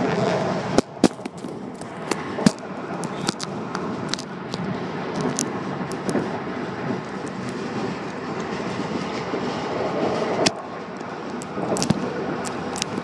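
Passenger train running at speed, heard from inside the carriage: a steady rumble of wheels on the track with scattered sharp clicks and knocks.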